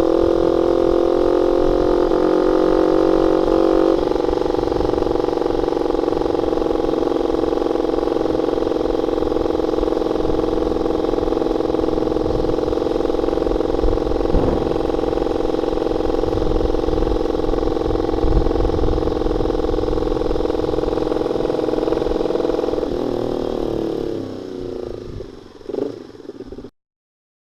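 Honda Sonic 150R single-cylinder four-stroke engine running through a CLD X Monster aftermarket exhaust with a half baffle, a steady loud exhaust note with a slight drop in pitch about four seconds in. Near the end the engine speed falls and the sound fades, then cuts off abruptly.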